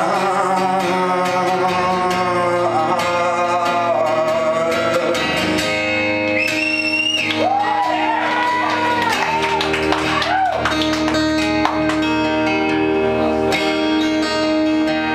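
Live rock band playing a stretch of a song without lyrics: guitars over held low notes, with wordless sung wails gliding up and down in the middle.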